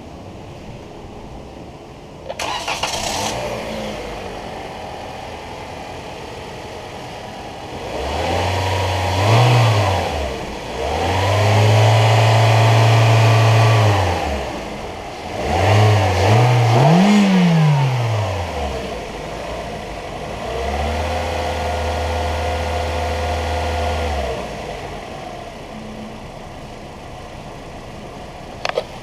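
2019 Toyota Corolla's 1.8-litre four-cylinder engine starting about two seconds in and idling, then revved several times: quick blips and revs held for a few seconds each, each time dropping back to idle. A sharp click comes near the end.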